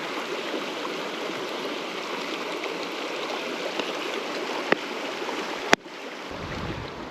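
River water flowing with a steady rushing and rippling. Two sharp clicks come near the end; after the second the water sound drops and a low rumble of wind on the microphone comes in.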